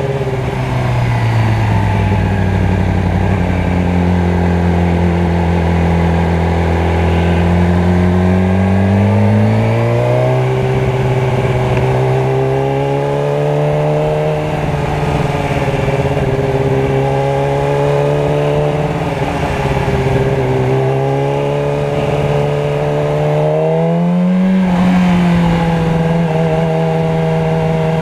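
Motorcycle engine running in traffic, its pitch holding steady for stretches and climbing as it speeds up about ten seconds in, again a few seconds later, and near the end.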